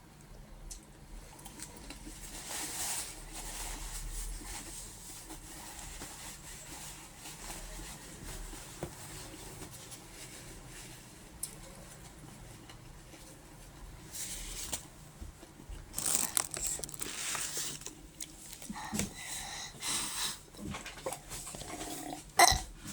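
Close-up eating sounds: chewing and mouth noises, with a busier run of bursts in the second half and a sharp click near the end.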